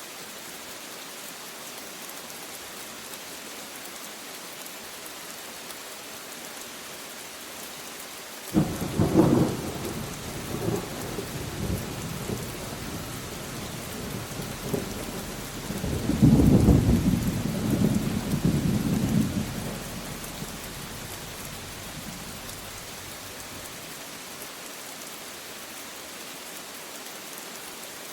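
Steady rain falling, with a thunderclap that cracks suddenly about eight seconds in and rumbles on, swelling again into a louder peal around the middle before dying away.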